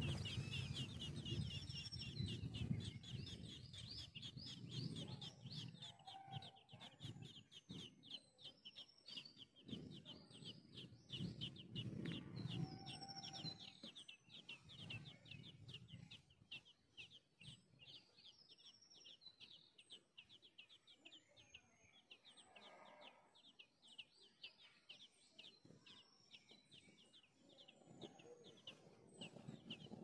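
A flock of small birds chirping in a fast, continuous stream of short high notes, with lower bird calls coming and going beneath them.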